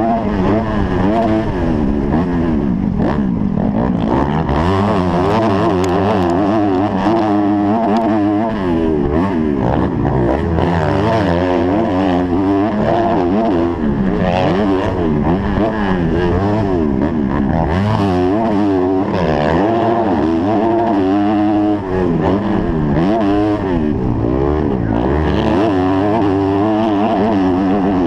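Motocross bike engine heard from the rider's helmet, revving up and falling back over and over as he accelerates, shifts and backs off around the track.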